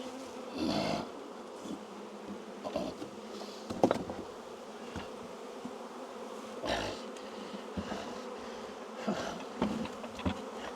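Honey bees buzzing steadily around an open hive, with a few knocks and bumps from wooden hive boxes being handled, the sharpest about four seconds in.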